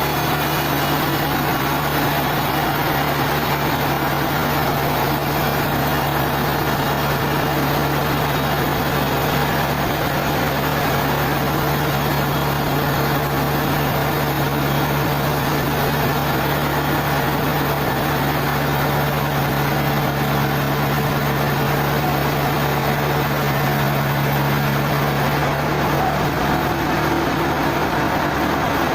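Sawmill machinery running steadily, a constant engine-like hum with broad mechanical noise over it; near the end the low hum drops away and a higher steady tone takes over.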